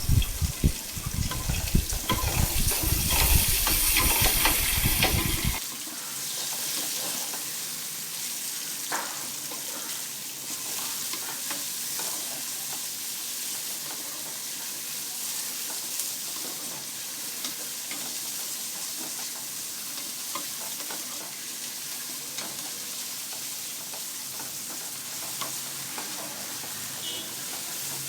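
Chopped onions frying in hot oil with ginger, garlic and green chillies, sizzling steadily while a spoon stirs and scrapes the pot. It is loud with a heavy rumble for about the first five seconds, then settles to an even sizzle with occasional light scrapes.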